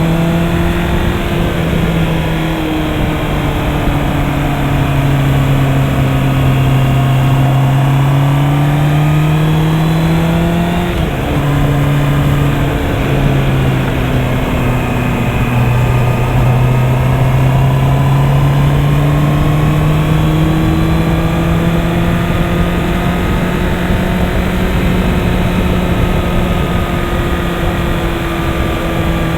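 Honda CB650R's inline-four engine running under way, its pitch rising and falling slowly with the throttle. About eleven seconds in the note breaks briefly and drops in pitch, then climbs steadily again.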